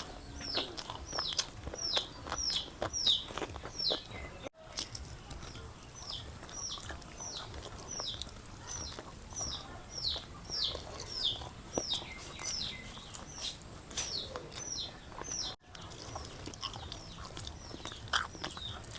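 A bird chirping over and over, short high notes that slide downward, about two a second, pausing briefly twice. Scattered short sharp clicks run through it.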